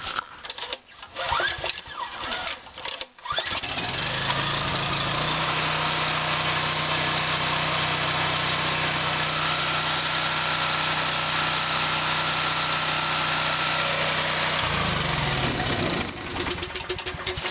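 Portable generator's small engine cold-started with the choke on. It catches about three seconds in and runs steadily, then its pitch drops and it winds down to a stop a couple of seconds before the end.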